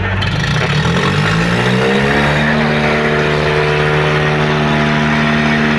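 Tractor diesel engine revving up over about two seconds, then held steady at high revs while pulling under heavy load in a tractor tug-of-war.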